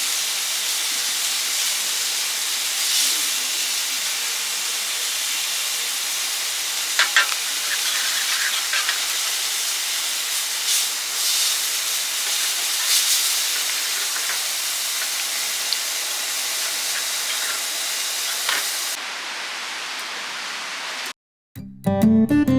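Meat sizzling as it grills: a steady hiss with a few sharp pops of fat. Just before the end it cuts off and acoustic guitar music begins.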